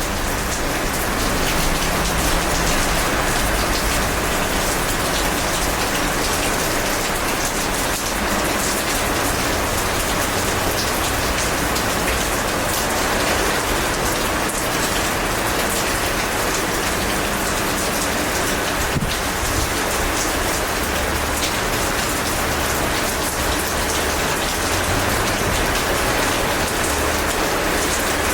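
Steady heavy rain, a dense even hiss with many individual drops striking surfaces close by.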